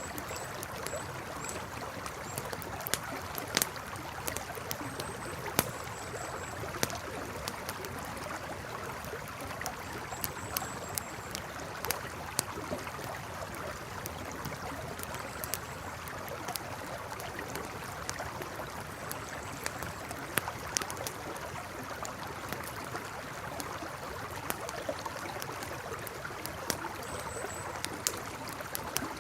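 Campfire crackling, with frequent irregular sharp pops and snaps, over the steady rush of a flowing river.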